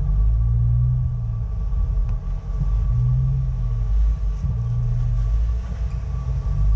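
Jeep Wrangler's engine running at low crawling speed, with a heavy low rumble that swells and eases several times as the throttle is worked to climb over the boulders.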